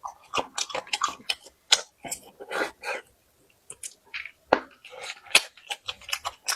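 Close-up chewing and crunching of food by a person eating, an irregular run of sharp crackles and clicks with short pauses.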